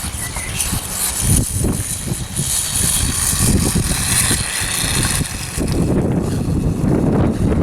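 Wind buffeting the microphone over the whir of a Reely electric RC dirt bike running on the ground.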